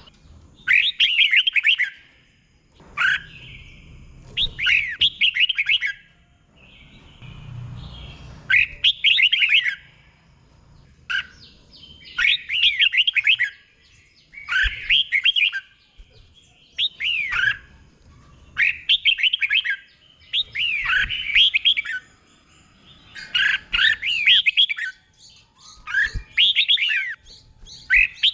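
Red-whiskered bulbul singing: short, bright warbling phrases of one to two seconds, repeated every couple of seconds with brief pauses between them.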